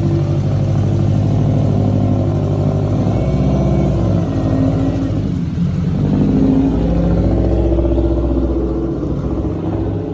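A high-performance car's engine and exhaust running loud and continuous, its pitch shifting in steps a few times, then fading near the end.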